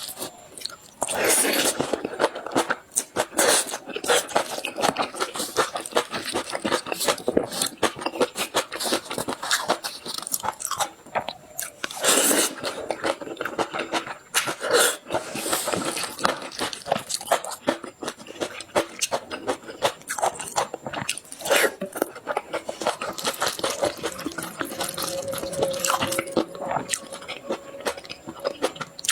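Close-miked eating of an iceberg lava cake: repeated bites and crunching with wet chewing, crackly and irregular.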